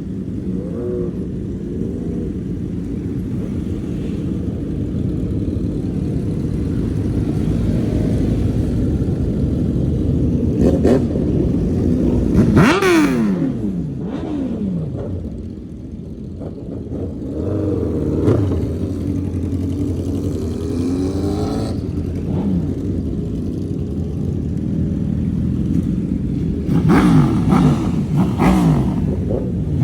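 Several motorcycles riding off one after another, their engines running and revving as they pass. The loudest pass comes about 13 seconds in, its pitch falling as it goes by, and a few sharp revs follow near the end.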